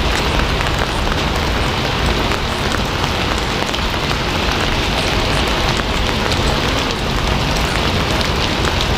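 Steady rain: a dense, even hiss with the patter of many small drops, holding level throughout.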